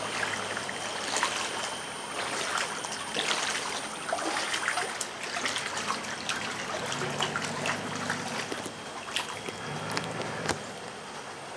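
Floodwater trickling and splashing, with many small drips and splashes.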